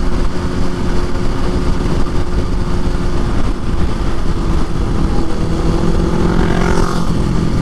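Motorcycle engine running steadily at highway cruising speed, with heavy wind noise on the microphone.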